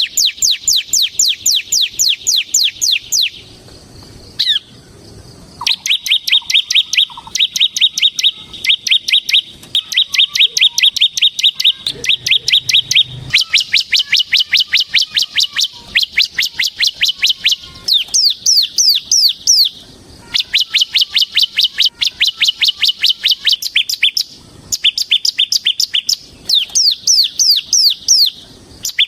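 Bar-winged prinia (ciblek semi) singing its rapid 'ngebren' trill: high, quickly falling notes at about eight a second, in runs of several seconds with short pauses.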